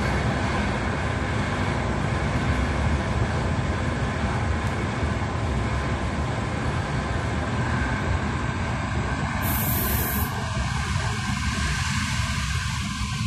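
Passenger train running at speed, heard from inside the carriage: a steady low rumble of wheels on track. A brief high hiss comes about ten seconds in, and the middle of the rumble thins out after it.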